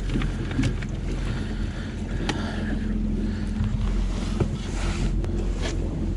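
Jet boat's engine running steadily with a low hum, over wind on the microphone and rushing water, with a few sharp clicks.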